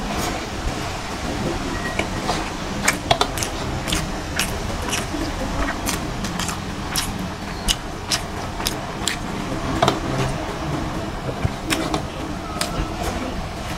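Chewing and lip-smacking of someone eating rice with fish curry: frequent, irregular sharp wet mouth clicks over a steady low background noise.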